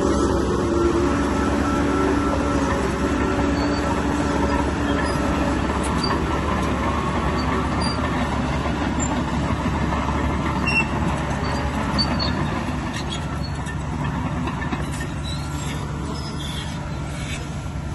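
Bulldozer at work: its diesel engine runs steadily under load while the steel tracks clank and squeal. The sound eases off a little in the last few seconds.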